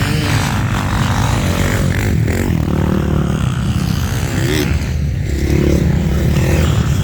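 Motocross bike engine running hard under a ride, its pitch rising and falling as the throttle opens and closes, over a heavy low rumble.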